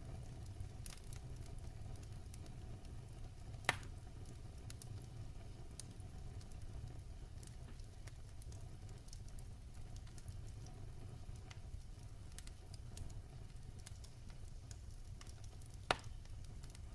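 Wood fire burning in a fireplace: a steady low rumble of the flames with scattered small crackles, and two sharper pops, one about four seconds in and one near the end.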